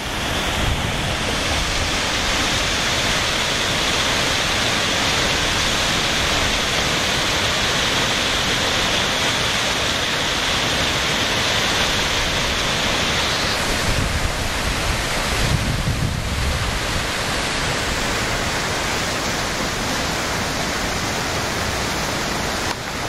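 Steady loud rushing of water from a dam's outflow, with wind buffeting the microphone now and then.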